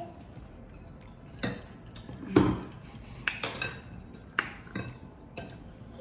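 Cutlery clinking and knocking against plates while eating, a string of separate clinks with the loudest about two and a half seconds in.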